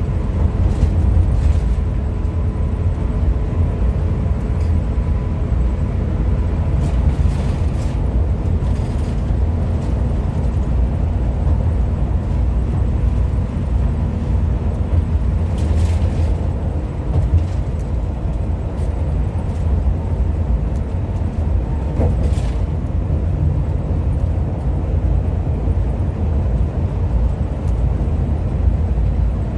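Hino RM 280 diesel coach on the move: a steady low rumble of engine and road noise, with a faint hum of thin steady tones in the first few seconds and a few light ticks.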